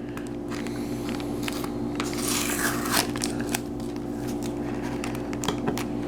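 Packaging being handled and unwrapped: rustling and crinkling with small clicks and taps, with a longer rustle about two seconds in. A steady low hum runs underneath.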